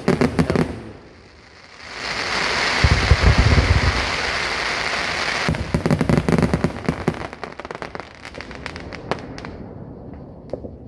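Fireworks going off: low booms about three seconds in under a dense crackling hiss, then a rapid run of sharp pops and crackles that thins out toward the end.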